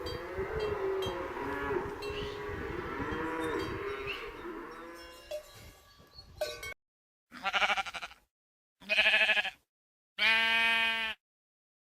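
Cattle mooing over the clink of cowbells, fading out after about six seconds. Then three separate sheep bleats, each under a second, with silence between them.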